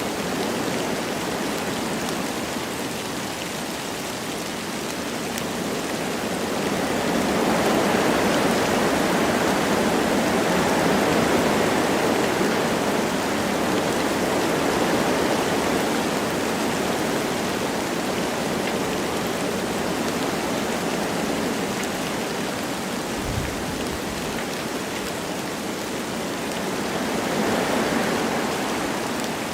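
Wind blowing through forest trees with light rain falling: a steady rushing that swells in gusts, strongest about a quarter of the way in and again near the end, with one brief low bump about three quarters through.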